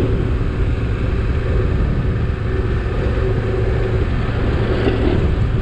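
Motorcycle engine running steadily while riding slowly on a dirt road, mixed with heavy rumble from wind and road on the rider's microphone.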